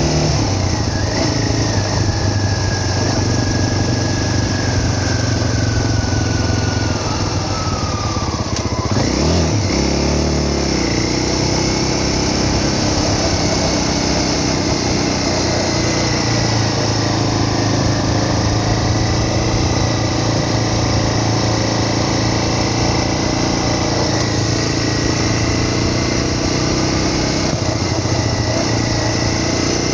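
Small motorcycle engine running steadily under way. Its pitch falls over several seconds as it slows, shifts abruptly about nine seconds in, then holds steady again.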